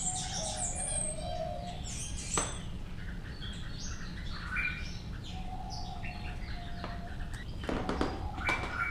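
Many small aviary birds chirping and twittering together in quick, overlapping calls, over a steady low hum.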